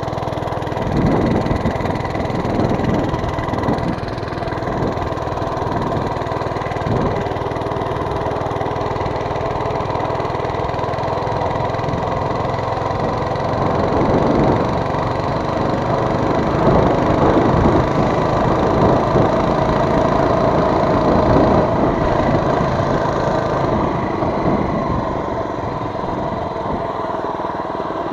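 Mini bike's small engine running steadily, revving up and easing back off several times.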